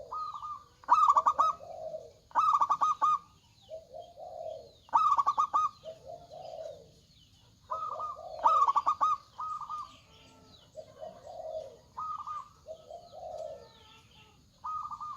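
Zebra dove (perkutut) singing with a big voice, repeating its rapid stuttering cooing phrase every two to three seconds. Each phrase is a quick run of sharp notes followed by a lower, softer coo.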